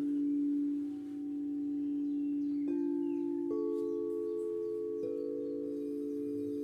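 Singing bowls ringing in long, overlapping steady tones, with a new tone struck in about two and a half seconds in, again at three and a half seconds, and again at five seconds, so the sound builds in layers.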